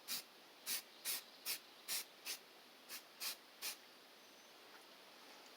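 Aerosol spray-paint can giving a run of about nine short hissing spritzes, two or three a second, which stop a little before four seconds in.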